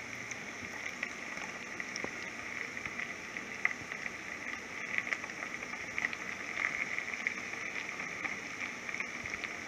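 Diced onion and garlic sizzling in hot butter and oil in a frying pan: a steady crackle with small scattered pops.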